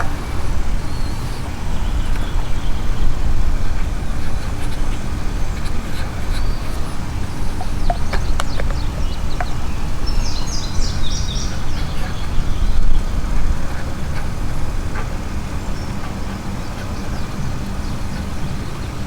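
A steady low rumble, with a bird's quick chirps about ten seconds in and a few faint clicks shortly before.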